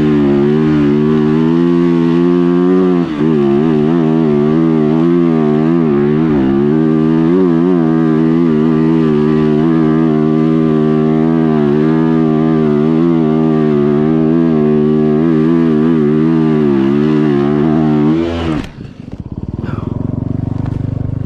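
Off-road motorcycle engine running hard on a sandy hill climb, its pitch rising and falling with the throttle. About eighteen seconds in it cuts out suddenly, and a lower, steadier engine note follows.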